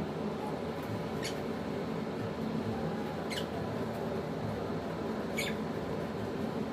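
African lovebird giving short, high squeaky chirps, three in all, about two seconds apart, over a steady low background hum.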